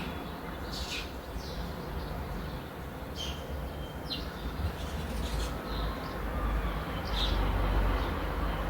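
Birds chirping in short, separate high calls every second or so, over a steady low rumble that grows louder near the end.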